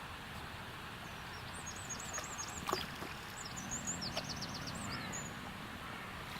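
A small bird singing a quick, high twittering phrase of looping and falling notes over a steady rushing background, with a few sharp clicks, the loudest about halfway through.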